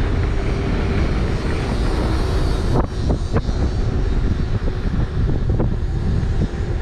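Wind rushing over the microphone along with tyre and motor noise from an electric unicycle riding at speed, with a few short knocks about three seconds in.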